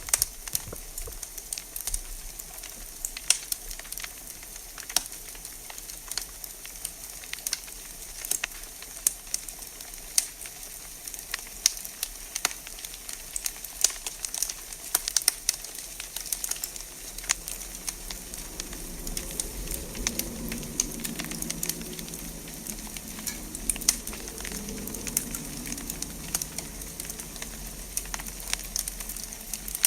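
Wood fire crackling in a fireplace: frequent sharp pops and snaps over a steady hiss. A low rumble rises and falls through the latter part.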